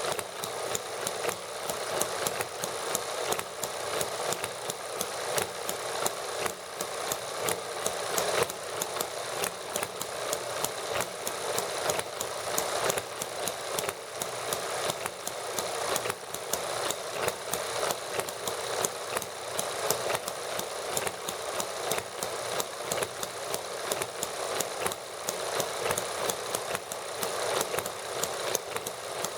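Several small hit-and-miss model gasoline engines running, a fast, even rattle of clicking firing strokes and valve gear, its loudness pulsing unevenly.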